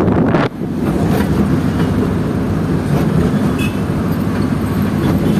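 Steady rumble of road traffic heard from a moving vehicle, with a brief sharp drop in level about half a second in.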